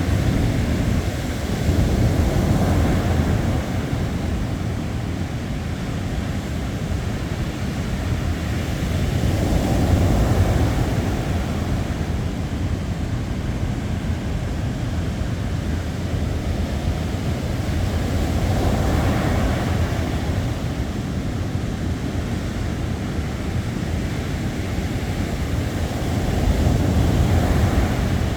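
Ocean surf: waves rolling in and breaking, with a low rushing noise that swells up about every eight seconds.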